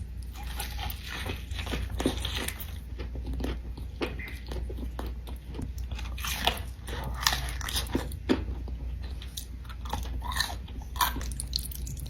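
A person biting and chewing crunchy food close to the microphone, with irregular sharp crunches throughout, the loudest about two seconds in and between six and eight and a half seconds in.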